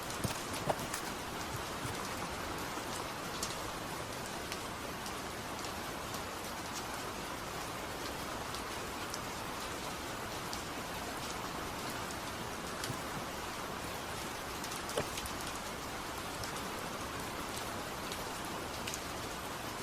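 Steady rain falling, with scattered sharper drop ticks now and then.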